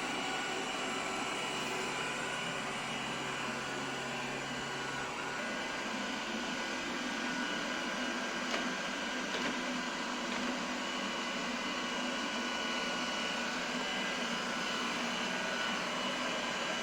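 iRobot Roomba Combo Essential robot vacuum running steadily, a constant whirring hum with a few thin whines in it. Two faint knocks come close together about halfway through.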